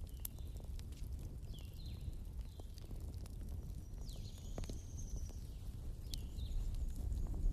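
Wood campfire burning: a steady low rumble with scattered sharp crackles and pops, and several short high squeaks plus a thin whistle about four seconds in.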